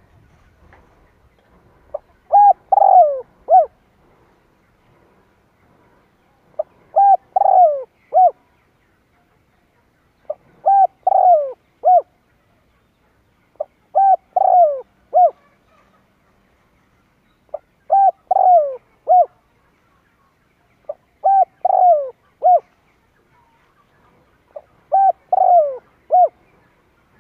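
Spotted dove cooing: a phrase of about four notes, the middle ones longer and falling at the end, repeated seven times, one every three to four seconds.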